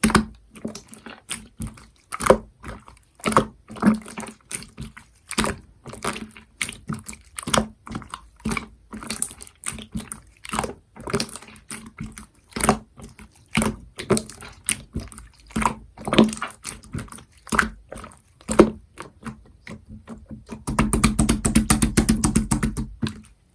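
Slime being played with by hand: irregular sticky clicks and pops, about two or three a second, becoming a dense rapid crackling squish for the last few seconds.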